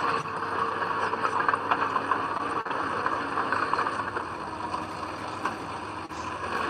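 Heavy earthmoving machinery's diesel engine running steadily, with light rattling.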